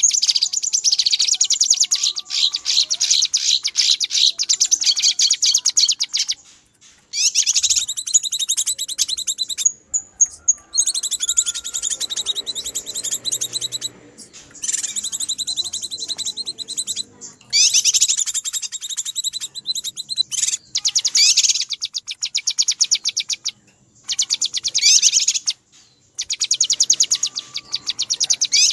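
Cucak kinoi calling in agitated, noisy chatter: long runs of rapid high-pitched notes, broken by short pauses several times.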